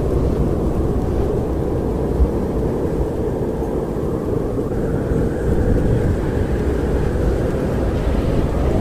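Strong winter wind blowing as a steady low rush, with a faint wavering moaning tone in it.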